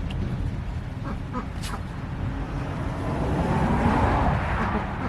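Ducks quacking intermittently while plastic poultry-crate panels are handled, with one sharp click a little under two seconds in. A louder rushing noise swells about three seconds in and fades near the end, over a steady low rumble.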